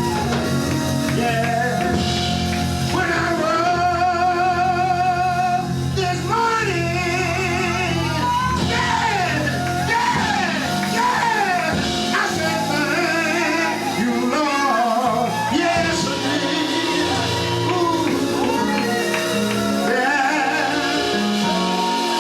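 Live gospel music: a singing voice with strong vibrato and sliding notes over steady held instrumental chords and a low bass line.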